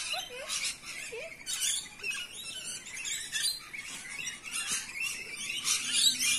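A flock of rainbow lorikeets chattering and screeching: a dense run of shrill, overlapping calls, with a few lower rising squeaks in the first second or so.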